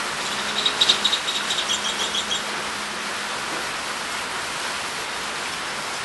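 Heavy rain pouring steadily. About half a second in, a bird gives a quick series of high, sharp chirps lasting nearly two seconds.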